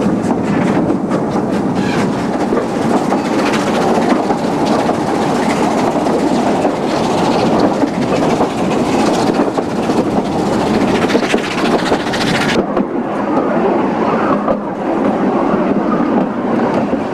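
Narrow-gauge railway carriages running along the track, a steady rumble of wheels on rail with light clicks over the rail joints. About two-thirds of the way through the hiss drops away, leaving a duller rumble.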